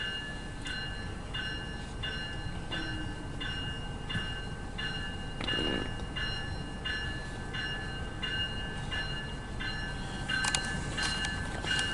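A bell ringing steadily, about three strikes every two seconds, as a MARC commuter train gets ready to depart, over a low rumble. A few sharp clacks come near the end.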